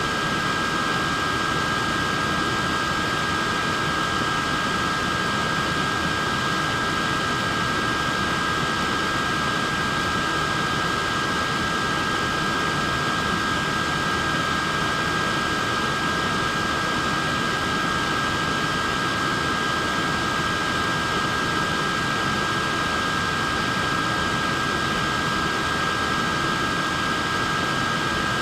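Portable neck fan running steadily: a constant rush of air with a high motor whine made of two steady tones.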